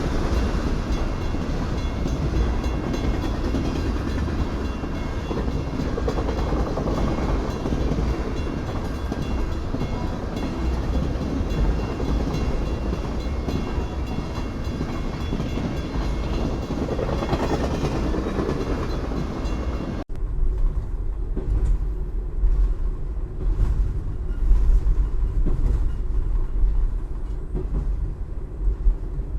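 Freight train cars rolling through a grade crossing, a steady loud rumble with wheel-on-rail clatter. About two-thirds of the way through, the sound cuts off abruptly to a quieter low rumble with scattered irregular knocks.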